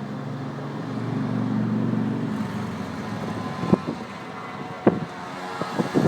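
Fireworks going off with sharp bangs, one at a time at first and then several in quick succession near the end. Before them, a low humming rumble swells and fades over the first couple of seconds.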